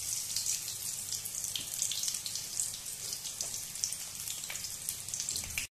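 Stuffed pointed gourds (parwal) shallow-frying in hot oil in a kadhai: a steady sizzle with many small crackling spits.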